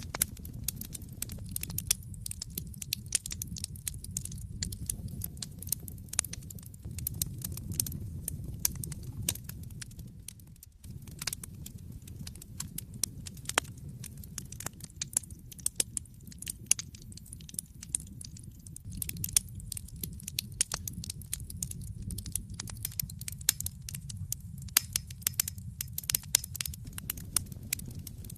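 Wood fire burning in a fireplace: frequent sharp, irregular crackles and pops over a steady low rumble of the flames, which dips briefly about eleven seconds in.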